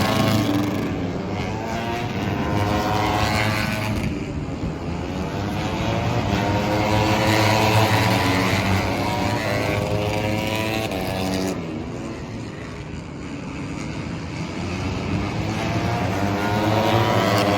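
MotoGP race motorcycles passing on the track at high revs, their engine pitch rising and falling as each goes by, over a steady low hum.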